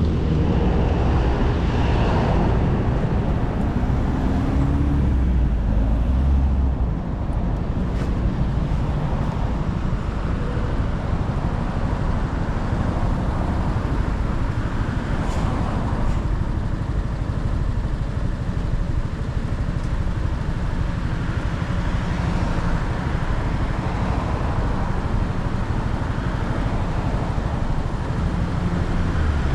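Motorcycle running on the road, recorded from the moving bike: a steady low engine rumble mixed with road and traffic noise. The rumble is stronger for the first several seconds, then eases off.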